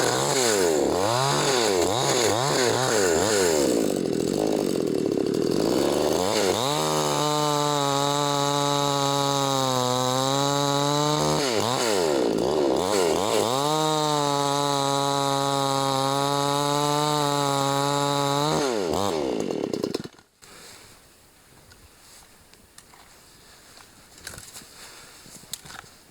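Two-stroke chainsaw sawing wood for firewood. It starts with a run of quick throttle blips, then is held at high revs through two long stretches with a brief rev between them. The engine winds down and stops about twenty seconds in.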